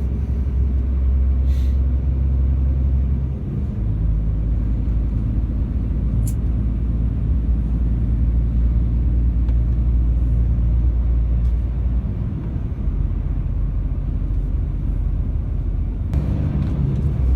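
Heavy truck on the road: a steady low rumble of the diesel engine and tyres, its note changing about three and a half seconds in and easing briefly about twelve seconds in.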